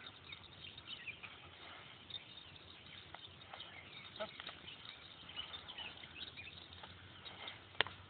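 Scattered high chirps of small birds over an outdoor background, with one sharp click a little before the end.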